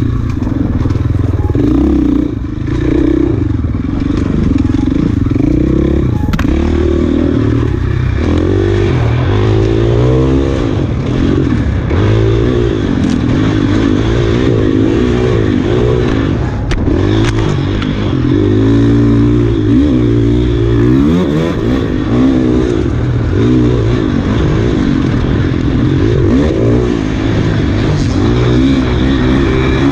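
Enduro dirt bike engine revving up and down under hard riding, its pitch rising and falling over and over with throttle and gear changes.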